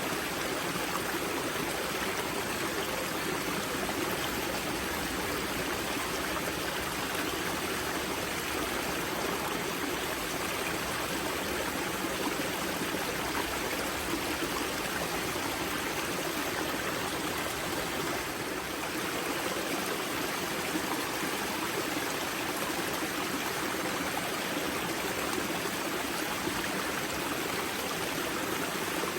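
Water of a river spring rushing and splashing over rocks in a steady, unbroken flow.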